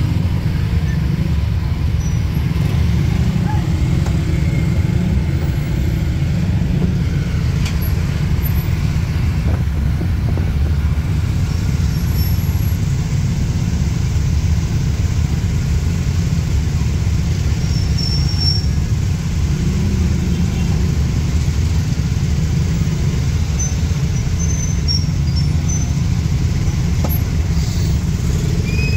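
Steady low rumble of a car driving through city traffic.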